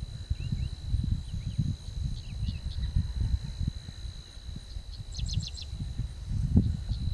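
Wind buffeting the microphone in uneven gusts, over a steady high-pitched insect drone. Birds chirp here and there, with a quick run of notes about five seconds in.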